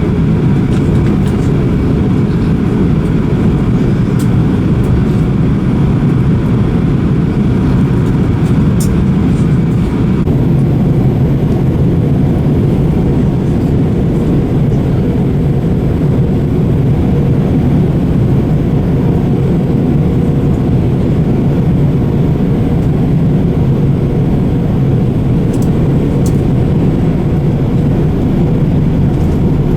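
Steady cabin noise of a jet airliner: a loud, even rumble of engines and airflow. A faint higher whine over the rumble eases about ten seconds in.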